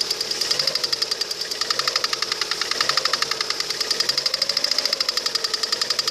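Lada Kalina 1.4 16-valve engine running with a fast, even ticking knock. The owner finds that the knock grows louder or disappears when the timing belt cover is shifted, which points to the cover.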